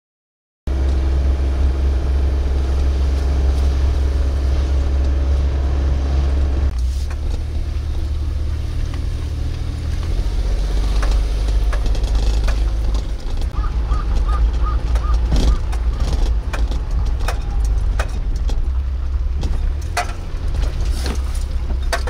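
Car driving on a gravel road, heard from inside the cabin: a steady low engine and road rumble with scattered clicks and rattles.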